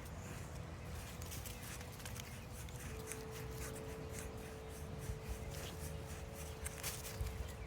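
Wind rumbling on the microphone, with a faint steady hum and scattered light clicks and scuffs through the second half.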